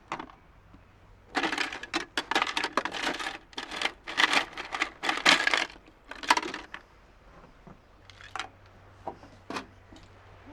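Crinkly packaging being handled and rustled for several seconds, followed by a few light clicks and knocks.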